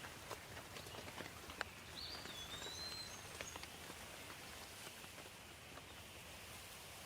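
Steady soft rain with scattered close drops ticking on a surface. A bird gives a brief chirping call, a rising-and-falling whistle, about two to three seconds in.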